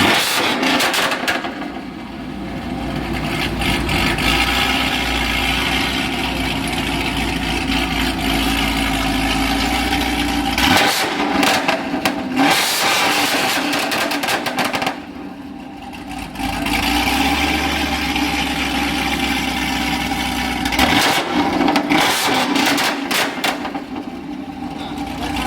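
Car engines running and revving, in several short stretches with abrupt changes between them.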